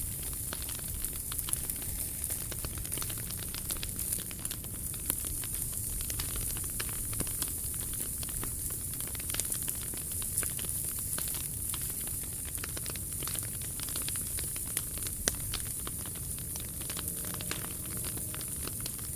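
Wood fire crackling, with frequent small, irregular pops over a steady hiss.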